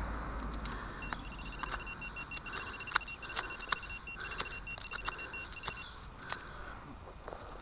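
Rapid, high-pitched electronic beeping from a metal detector's speaker, starting about a second in and lasting about five seconds, over scattered sharp clicks and taps.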